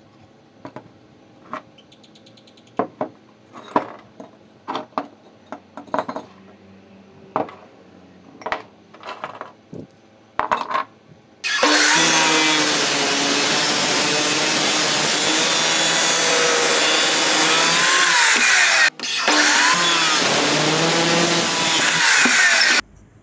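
Scattered knocks and clicks of tools and parts being handled. About halfway through a power tool starts up and runs loudly with a wavering pitch, cuts out for a moment, runs again, and stops shortly before the end.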